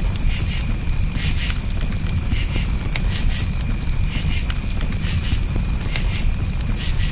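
Crickets chirping in repeated short pulsed trills over a campfire crackling with scattered small pops, above a steady low rumble.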